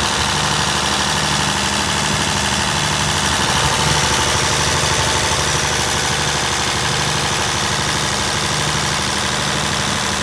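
Perkins 1103A-33TAG2 three-cylinder turbocharged 3.3-litre diesel engine of a 45kVA generator set, running at a steady, even speed.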